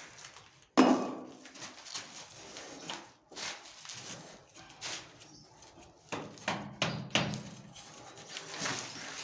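Irregular knocking and scraping, like hand tools working on a fitting, with one loud bang about a second in.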